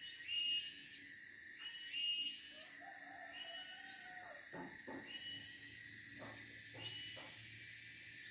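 Siberian blue robin calling over and over, a high thin call every second or two: a short level note, then a quick whistle that sweeps up and back down. A steady high hum sits underneath.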